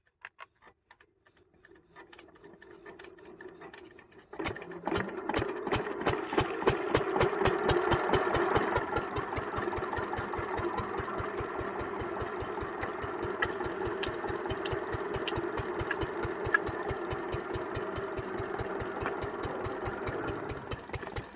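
12 hp single-cylinder diesel pumpset engine being turned over, with a rising whirr for a couple of seconds. It fires about four seconds in and settles into a steady, even running knock.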